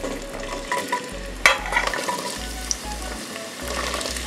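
Sliced carrots scraped off a plate into a pot of hot oil, sizzling as they start to fry, with the utensil scraping and one sharp knock about a second and a half in.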